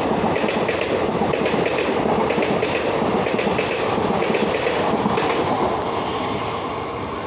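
Express passenger train running through a station at high speed without stopping, its wheels clattering over the rail joints in a fast clickety-clack with the rush of the passing coaches. The sound starts to fade about three-quarters of the way through as the last coach passes and moves away.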